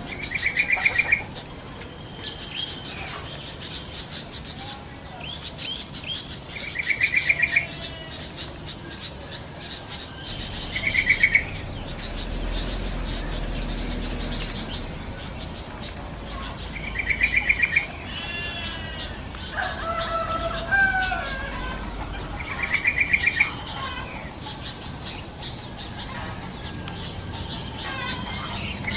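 Wild birds calling, uploaded as yellow-vented bulbuls (trucukan). A short, loud rattling trill comes back every four to six seconds, with scattered gliding whistles and chirps between, over a faint, steady ticking chorus.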